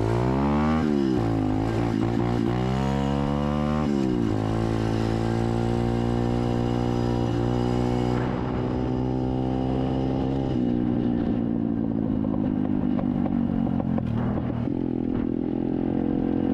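SSR 125 dirt bike's single-cylinder four-stroke engine running, its pitch rising and falling several times in the first four seconds. It then holds steady and drops lower about ten seconds in.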